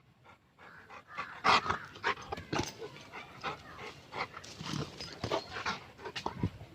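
A dog making irregular short breathy sounds, like panting, with small clicks and noises in between; the loudest comes about one and a half seconds in.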